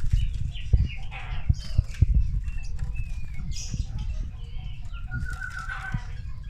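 Several caged songbirds chirping and calling, with a few low knocks and rustles close by.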